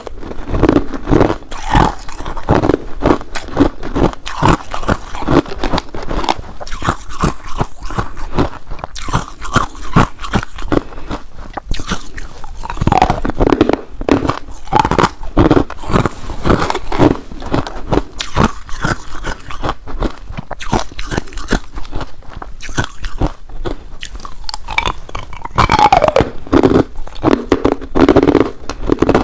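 Ice being bitten and crunched between the teeth, close to the microphone: a continuous run of irregular crunches and cracks as the pieces are chewed.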